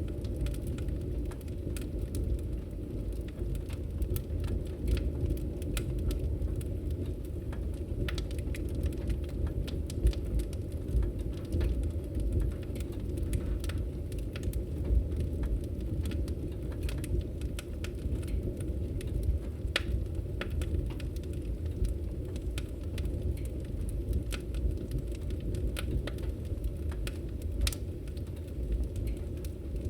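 Wood fire in a fireplace crackling: a steady low rumble of burning with scattered sharp pops and snaps throughout.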